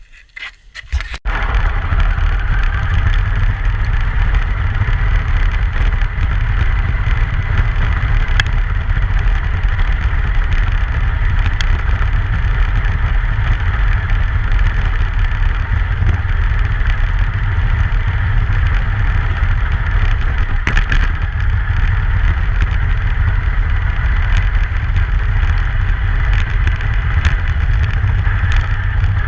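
Steady low rumble and road noise of a truck driving, with a few faint clicks; it starts abruptly about a second in.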